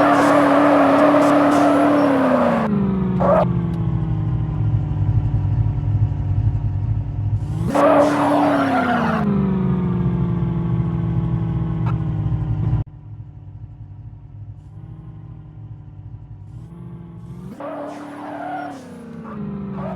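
Car engine held at high revs with a hissing screech over it, the pitch falling away after about two seconds to a steady lower note. About eight seconds in the revs jump sharply with another burst of screech, then fall again. Partway through, the sound cuts abruptly to a quieter engine that blips its revs a few times near the end.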